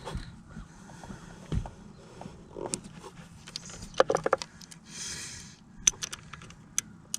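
Hand tools tightening engine bolts: scattered metallic clicks and clinks of a wrench or ratchet, with a quick run of clicks about four seconds in and a brief rustling hiss about five seconds in.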